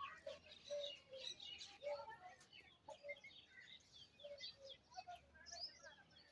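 Faint chirping of many small birds, with short low notes repeating every half second or so beneath it.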